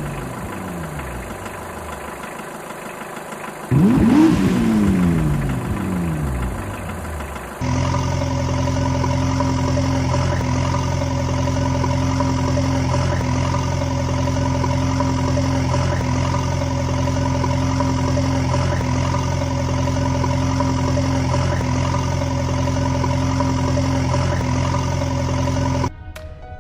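Engine sound effect for a cartoon vehicle. It opens with two sweeps that rise briefly and then fall in pitch, one near the start and one about four seconds in. From about eight seconds in there is a steady, unchanging engine drone, which cuts off suddenly shortly before the end.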